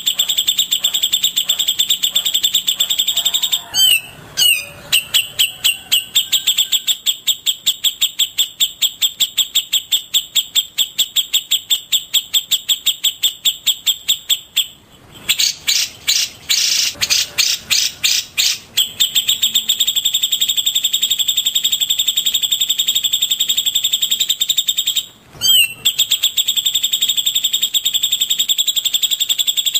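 Recorded songbird song played as training audio: a fast, even run of high notes of one pitch, about five a second. It breaks off twice, and near the middle it changes for a few seconds to slower, sharper notes.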